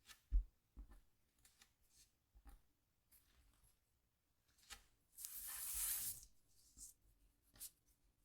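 Scratchboard coating being scraped with a scratch tool: scattered short, faint scratches and ticks, then one longer, louder scratching stroke lasting about a second, a little past halfway.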